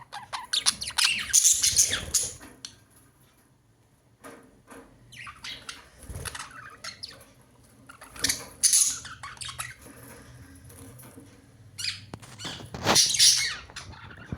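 Budgerigars chattering and squawking in four bursts, with short quieter gaps between them.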